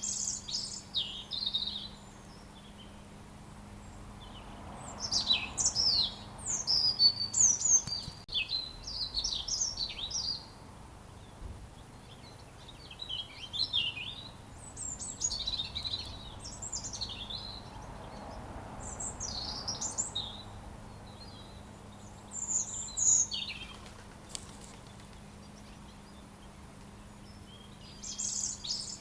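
Robin singing: bursts of high, quick warbling and chirping phrases, each a second or several seconds long, separated by short pauses.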